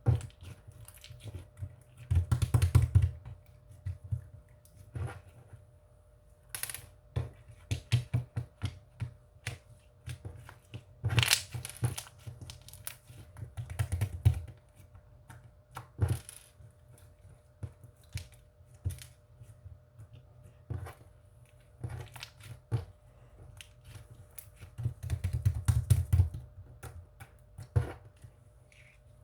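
Paper being handled by hand, crinkling and crumpling, with many small taps and clicks and louder bursts of rustling now and then.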